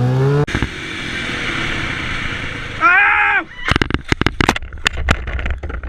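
Yamaha FZ6R inline-four motorcycle engine revving up, then breaking off sharply about half a second in, as at a gear change. The engine and wind noise carry on under it. In the second half comes a run of sharp crackling thumps, like wind buffeting the microphone.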